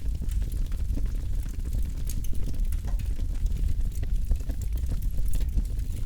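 Campfire burning, with a steady low rumble and irregular crackles and pops of burning wood.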